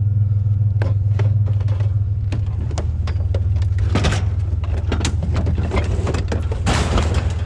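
Truck engine idling steadily under a string of sharp clicks and knocks and two short scraping rustles, as a cord caught under the bumper is worked free.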